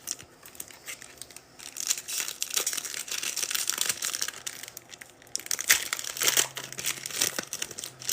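Foil trading-card pack wrapper crinkling and tearing as a pack is ripped open, in two irregular stretches of crackle.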